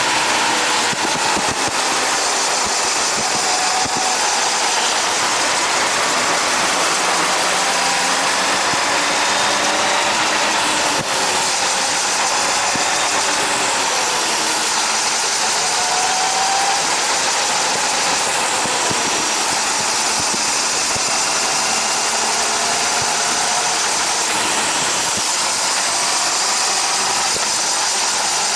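Honda CBR600RR's inline-four engine running under heavy wind rush on a helmet-mounted action camera while riding, the engine pitch slowly rising and falling.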